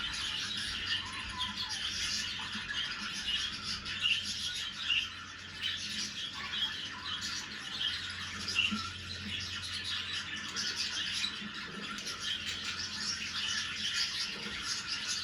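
Budgerigars chattering: a continuous run of short warbled chirps and squawks.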